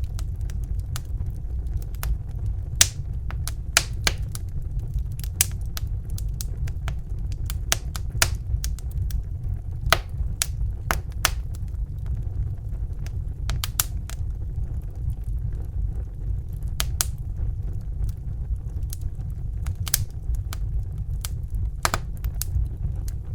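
Crackling fire: irregular sharp pops and snaps, a few a second, over a steady low rumble.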